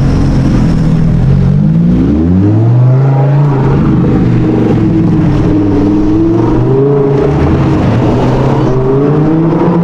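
A sports car engine accelerating: its note rises steeply about two seconds in, then holds with small rises and falls, and climbs again near the end.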